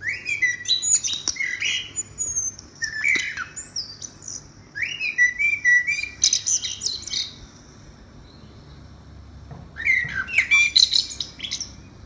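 A bird calling from a tree: three bouts of loud, high, quickly changing calls, each a couple of seconds long, at the start, in the middle and near the end, with quieter pauses between.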